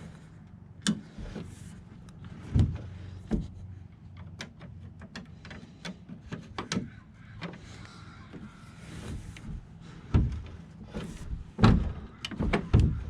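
Scattered knocks and clunks from a pickup tailgate and its metal straps being handled, with the loudest knocks coming near the end. The straps are held by new tailgate bumpers, so the parts make no strap rattle.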